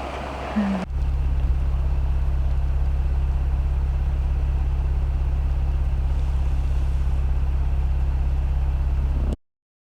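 A steady low hum with a fast, even pulse, taking over abruptly from a rushing noise about a second in and cutting off suddenly near the end.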